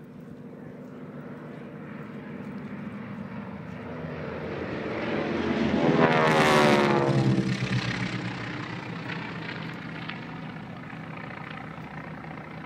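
A propeller airplane flying past: its engine sound grows louder, peaks about six and a half seconds in, then fades away, the pitch dropping as it goes by.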